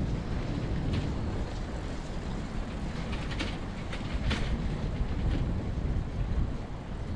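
Steady low rumble of passing vehicles, with a few light clicks about three to four and a half seconds in.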